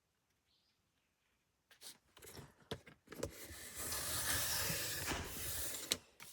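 Paper trimmer blade cutting through a sheet of printed paper: a few clicks as it is set, then about three seconds of steady scraping hiss as the cutter slides along, ending with a sharp click.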